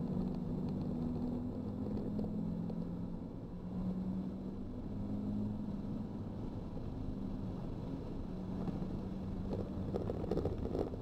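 Nissan 370Z's 3.7-litre V6 engine heard from inside the cabin, running under throttle as the car gains speed down a straight, over steady road and wind rumble. A rougher, noisier stretch comes in near the end.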